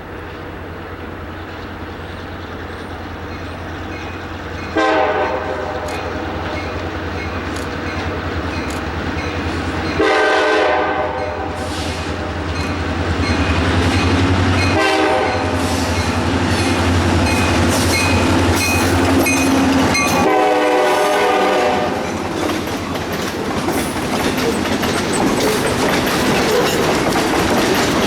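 Diesel freight locomotive sounding its horn in the grade-crossing pattern: two long blasts, a short one and a final long one. Under the horn are the steady rumble of the engine and the clatter of the cars.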